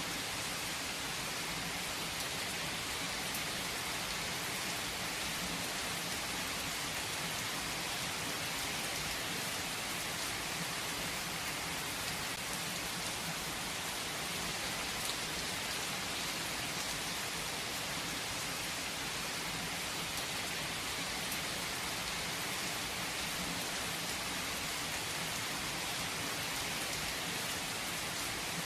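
Steady rain falling on a surface, an even hiss with occasional individual drop ticks.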